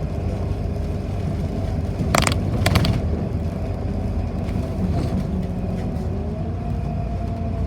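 City bus in motion, heard from inside the cabin: a steady low engine and road rumble, with a short rattling knock about two seconds in and another just before three seconds.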